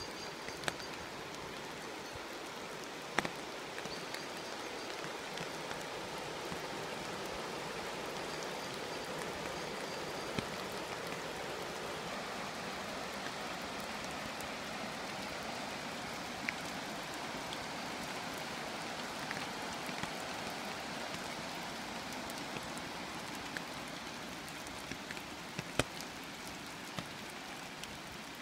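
Steady rain falling, an even hiss with an occasional sharp drip tick.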